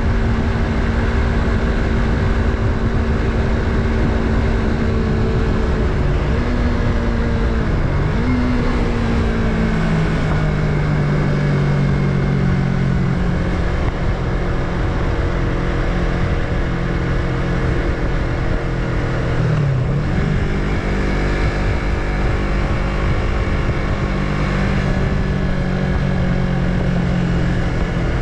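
Yamaha MT-03's 321 cc parallel-twin engine running under way. Its note drops about eight seconds in and settles lower, then dips briefly and picks up again about twenty seconds in.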